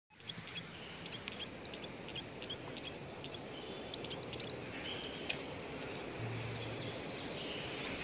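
Young bird chirping in short, high, repeated calls, about three a second, which stop about four and a half seconds in. A single sharp click follows about a second later.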